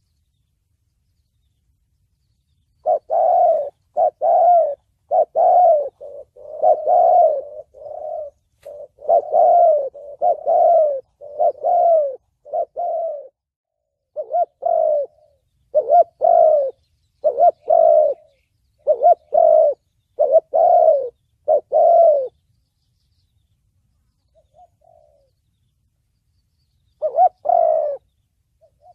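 Spotted dove cooing in the 'thổ bầu' call style: a run of short, repeated coo notes starting about three seconds in, pausing after about 22 seconds, then a faint note and one more phrase near the end.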